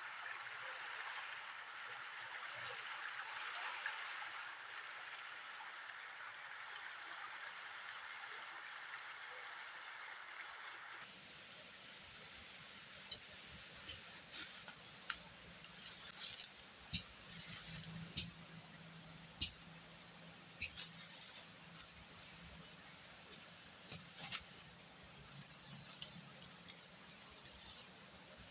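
Steady rushing water for about the first ten seconds. It then gives way abruptly to scattered sharp clicks and knocks over a faint low hum.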